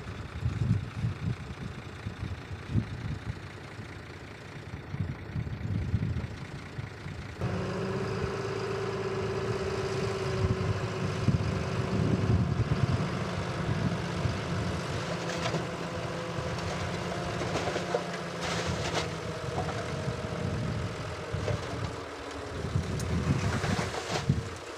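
Heavy diesel construction machinery engines running at a fill site, a low uneven rumble at first. About seven seconds in, it changes abruptly to a louder, steadier engine drone.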